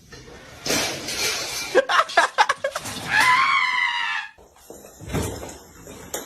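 Objects clattering and knocking as they are knocked over, followed by a drawn-out high-pitched cry whose pitch bends and slides for about a second.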